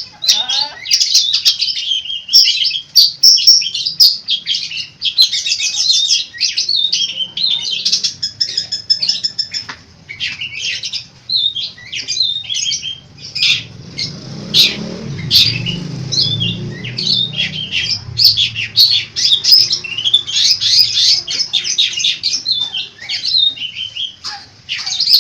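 Long-tailed shrike (cendet) singing nonstop, a fast, varied chatter of short chirps, trills and whistles that is full of phrases mimicked from other birds.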